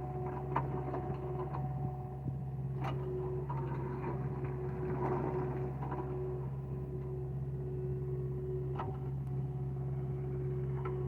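Excavator engine running steadily at a constant pitch, with a few sharp knocks over it.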